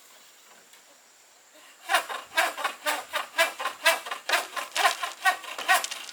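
Hand saw cutting wood, starting about two seconds in with quick, even back-and-forth strokes, several a second.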